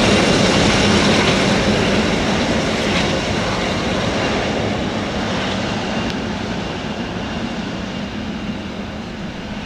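Boeing 777 freighter's jet engines: a steady roar that fades away gradually as the plane moves off.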